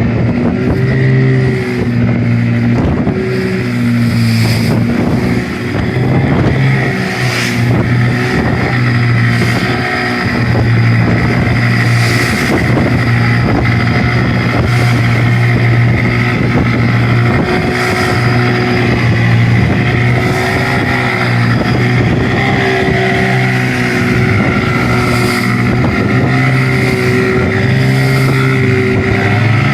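Boat engine running steadily at sea, with a short splash or crash of water every few seconds as waves strike the boat in rough, windy conditions.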